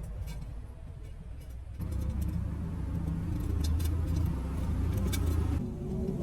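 Honda Super Dream 110cc motorcycle engine running steadily, getting louder about two seconds in, with light metallic clicks over it.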